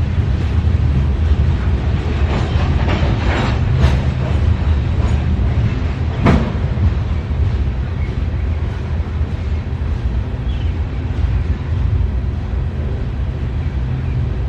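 CSX freight train cars rolling past: a steady low rumble of steel wheels on rail, with a run of clicks a few seconds in and one sharp clank about six seconds in.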